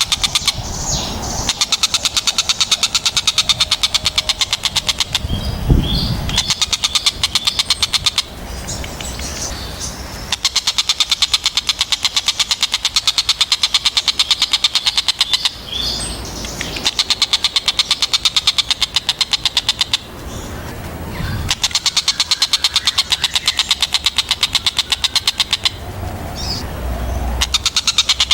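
Tengkek buto kingfisher calling: long, very rapid series of sharp, high repeated notes, in bouts of several seconds broken by short pauses. A few brief low bumps come in between the bouts.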